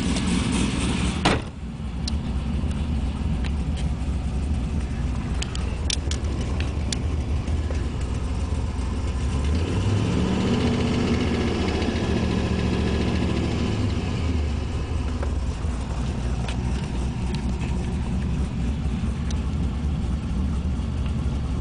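GM LS1 5.7-litre V8 engine running at idle with a tick from the top end, a tick first taken for a collapsed lifter and traced to an exhaust leak. One sharp knock about a second in, and the engine speed rises a little near the middle, then settles back.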